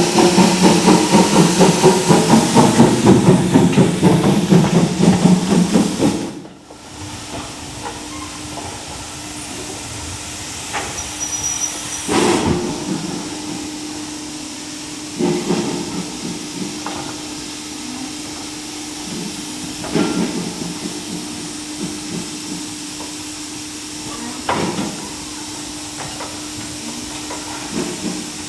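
Heritage railway locomotive sounds: for about six seconds a loud engine running with a fast, even pulse. It then cuts off abruptly, giving way to a standing locomotive's steady hiss and hum with a few separate clanks.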